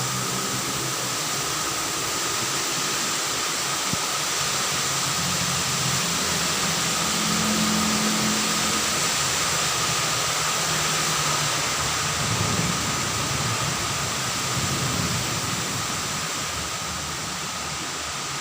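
Steady rain falling as an even hiss, with a low droning hum underneath.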